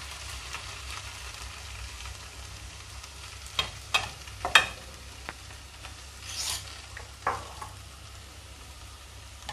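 Okra stir-fry sizzling in a pan on a gas stove as beaten egg is added, with a spatula stirring and scraping against the pan. A few sharp knocks come around the middle and once more near the end.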